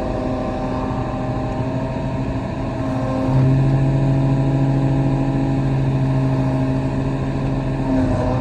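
Kobelco SK35 excavator's diesel engine running steadily; about three seconds in it gets louder with a stronger low hum, holding until shortly before the end.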